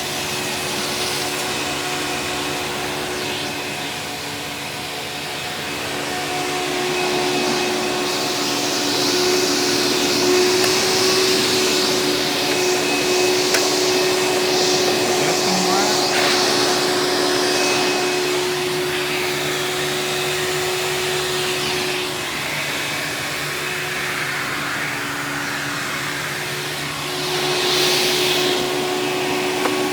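Hoover Power Drive Supreme direct-air upright vacuum running with its hose in use. A steady motor hum runs under a rush of air that swells and fades as the hose is worked, louder about a third of the way in and again near the end.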